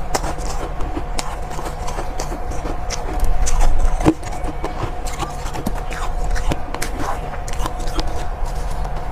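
Soft ice being bitten and chewed close to the microphone: irregular crisp crunches and crackles, louder for a moment around three to four seconds in, over a steady background hum.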